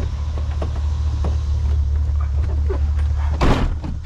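Pickup truck's engine idling with a steady low hum, under a few short knocks and one louder, sharper noise about three and a half seconds in.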